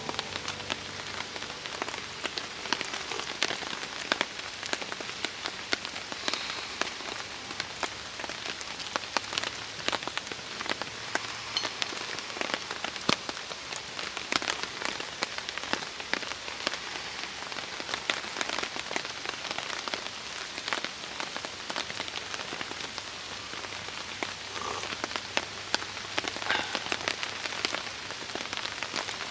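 Steady rain falling, with many sharp, close individual drop hits over an even hiss.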